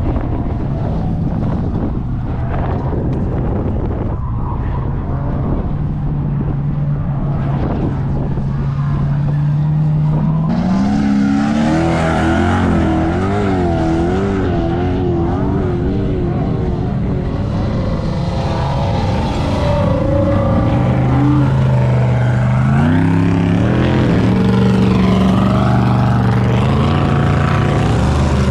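Car engines revving hard over a steady engine hum. The pitch climbs, then bounces rapidly up and down for several seconds, and near the end climbs again as the revs rise.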